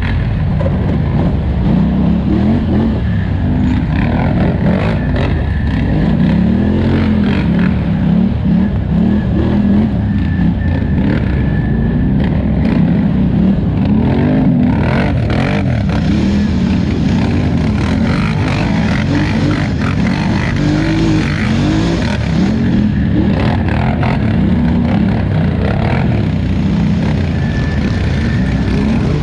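2018 Polaris Scrambler 1000XP ATV's twin-cylinder engine running hard under race throttle, its revs rising and falling over and over, with brief knocks scattered through.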